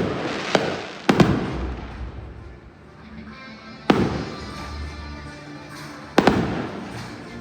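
Aerial fireworks bursting: sharp bangs near the start, about a second in, and again about four and six seconds in, each fading out over a second or two. Music plays underneath.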